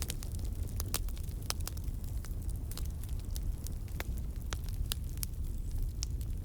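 Campfire burning: a steady low rumble of flames with sharp, irregular crackles and pops from the burning wood.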